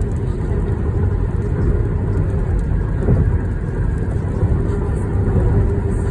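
Highway road noise: a vehicle's tyres rumbling steadily on the pavement at speed, a loud, even low rumble with no distinct events.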